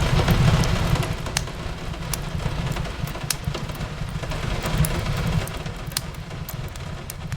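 Wood fire crackling in scattered sharp pops over a steady hiss of rain on a window, with a low rumble underneath.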